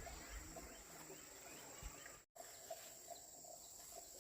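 Faint outdoor ambience with insects, likely crickets, giving a steady high-pitched drone. The sound cuts out completely for a moment just past halfway.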